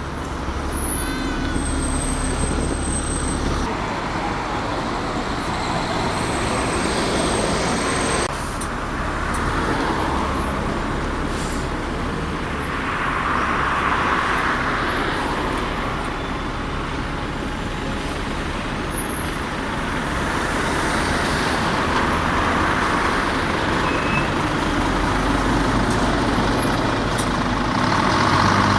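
Diesel buses running in street traffic, with engine drone throughout and a hiss of air about halfway through, typical of a bus's air brakes.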